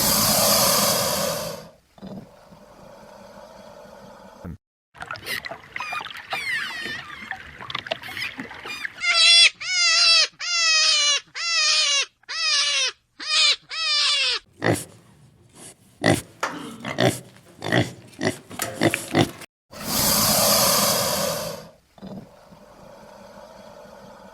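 Farm animal calls: a loud, rough call at the start and another near the end, and in the middle a run of about nine short high calls, each falling in pitch, followed by a patter of quick clicking sounds.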